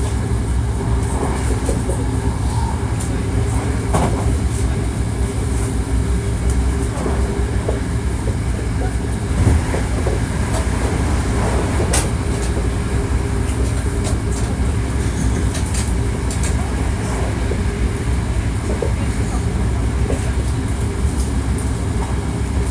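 Hankyu 1300 series electric train heard from inside the car while running at steady speed: a constant low rumble of the wheels on the rails with a few level tones from the running gear and occasional sharp clicks.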